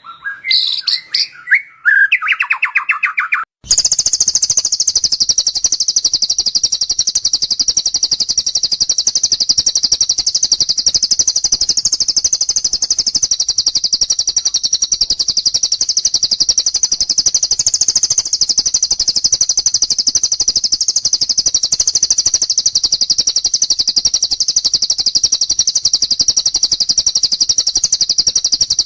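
A few varied bird chirps and whistles, then, from about three and a half seconds in, a lovebird's long unbroken trill: a very fast, high, rattling chatter that keeps going without a pause.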